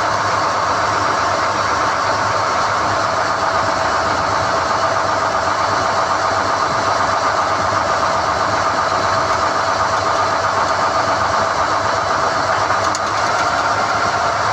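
SDH-1600 core drilling rig running steadily during rod hoisting: an even, loud mechanical sound with a held whine, changing slightly near the end.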